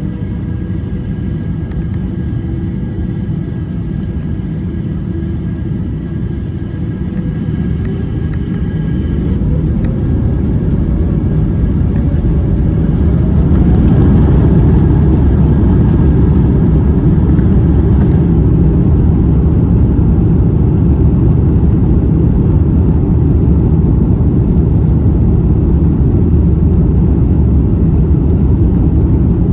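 Airbus A350-900's Rolls-Royce Trent XWB engines heard from inside the cabin, spooling up to takeoff thrust. A rising whine over a deep rumble grows louder for several seconds about a third of the way in, then settles into a steady loud rumble as the takeoff roll runs on.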